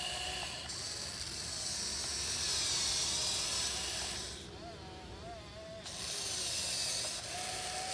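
Motors of a 1580 RC excavator whining as the arm works, the pitch wavering as the load changes. The whine drops away for about a second in the middle, then picks up again.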